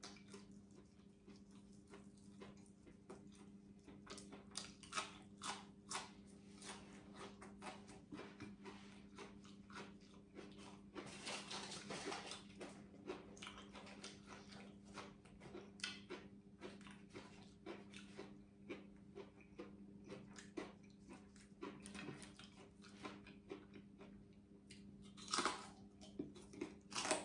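Close-up chewing and crunching of deep-fried dried fish and raw herbs, with irregular sharp crunches, a denser run of crackling about halfway through and the loudest bites near the end, over a faint steady hum.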